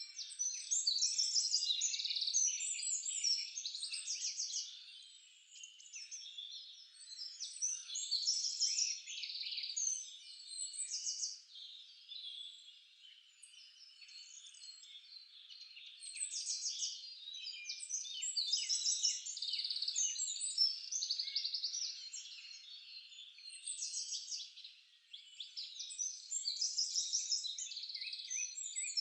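Forest songbirds singing: overlapping trills and chirps in phrases, with louder bursts every few seconds.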